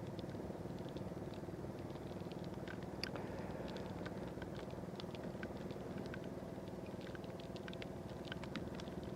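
Light rain falling on a moving motorcycle: scattered raindrops strike the microphone as irregular small clicks over the steady drone of the engine and road noise.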